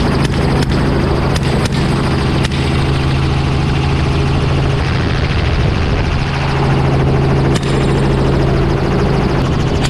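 Helicopter in flight, a steady loud drone of rotor and engine heard from aboard, with a few sharp clicks or cracks across it in the first couple of seconds and once more near the end.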